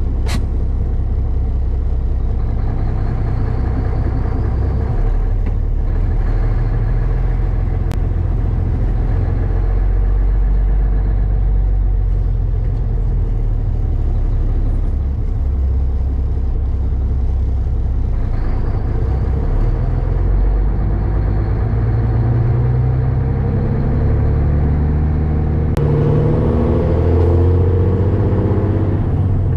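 Peterbilt cabover truck's diesel engine running as the truck gets under way, its note stepping between steady pitches and rising near the end as it pulls harder.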